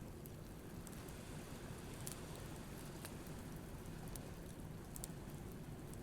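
Wood bonfire crackling, with scattered sharp pops every second or so over a steady low rush of surf.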